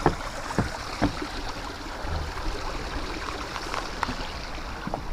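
A few footsteps in the first second, then a steady rushing noise with no clear pattern, like running water or wind.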